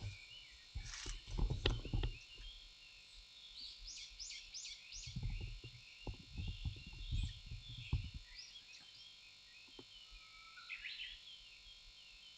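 Small birds chirping in quick, high, repeated notes. Low scuffs and thumps come in about a second in and again from about five to eight seconds in.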